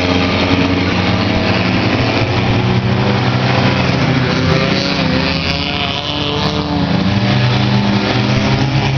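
Several race car engines running hard around a figure-8 track, overlapping, their pitches rising and falling as the cars pass.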